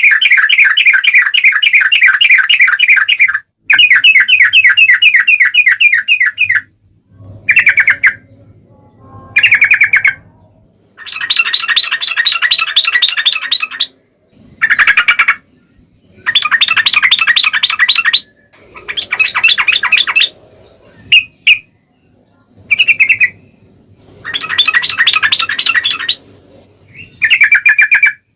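Yellow-vented bulbuls (trucuk) calling in loud bursts of rapid chattering trills, each burst lasting half a second to about three seconds, one after another with short gaps.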